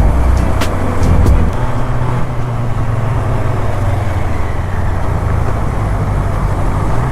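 Motor vehicle on the move along a road: a steady low engine drone under road noise, a little louder in the first second and a half, with a couple of faint clicks near the start.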